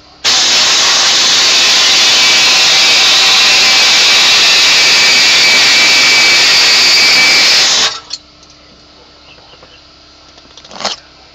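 Air-powered cutting tool running steadily at full speed for about seven and a half seconds while trimming a hole in the dash, then stopping abruptly. A single short knock comes near the end.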